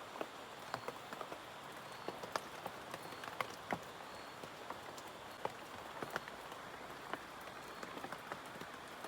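Steady light rain, with individual drops tapping irregularly on a shelter roof of teak leaves.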